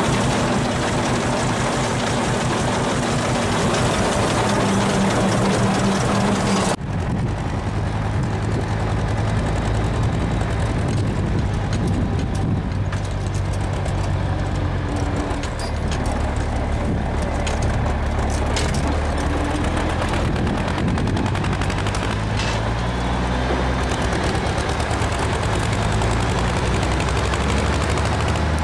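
Background music, then about seven seconds in it cuts to an Ursus C-330M tractor's two-cylinder diesel engine running steadily with a fast, even putter, its speed rising and falling slightly.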